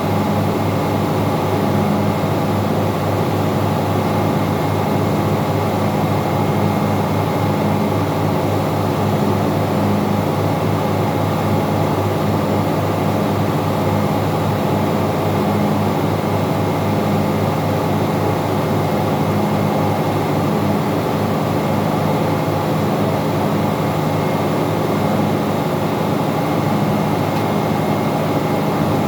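Steady, loud drone of running engine-room machinery, with several constant hum tones over a low rumble.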